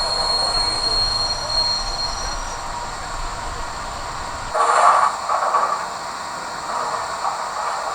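Hornby model of the Flying Scotsman running with its onboard steam-locomotive sound: a steady hiss with a thin high tone for the first couple of seconds, then, from about halfway, regular chuffs.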